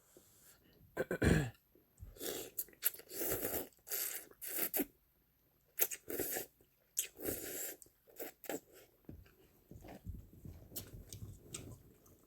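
Close-miked mukbang eating of ramen noodles: a run of short, wet chewing and mouth noises, the loudest about a second in.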